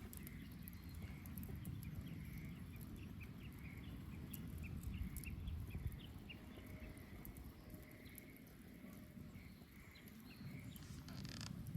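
Wood bonfire burning, with scattered sharp crackles and pops over a steady low rumble. A run of short, high chirps sounds in the first half.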